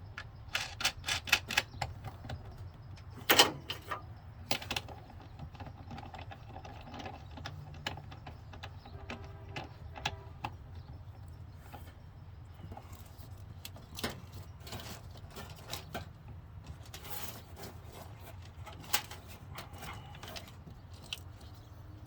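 Hand work on vehicle wiring: irregular clicks, clinks and knocks of tools, fittings and wires being handled. There is a quick run of clicks about a second in and a sharp knock a few seconds in, over a steady low hum.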